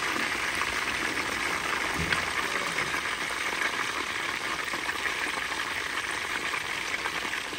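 Chicken pieces frying in hot oil: a steady sizzle with a few small crackles.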